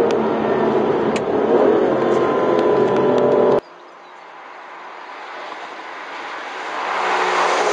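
Aston Martin Virage's 5.9-litre V12 running steadily at cruising speed. About three and a half seconds in, the sound cuts off abruptly and is replaced by the car approaching from afar, its engine and tyre noise growing steadily louder as it nears.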